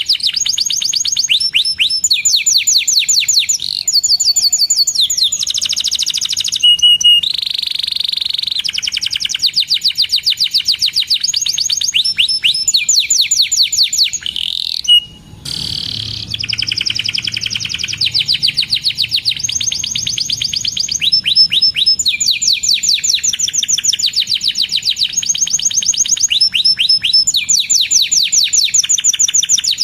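Domestic canary singing: long trills of fast, evenly repeated high chirps, changing speed and pitch from one phrase to the next, with a short break about halfway.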